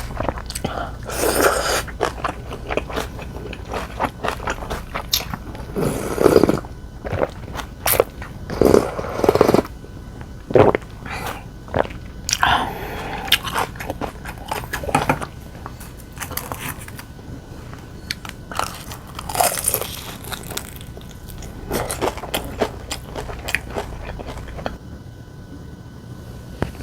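Close-miked eating: irregular crunchy bites and chewing, with small clicks, loudest in a cluster of bites a few seconds in.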